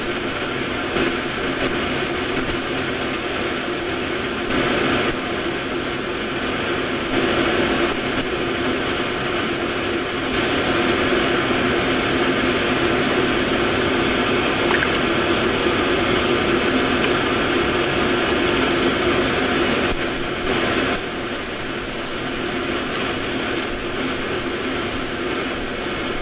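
Steady whirring machine noise with a low hum, a little louder for a stretch in the middle.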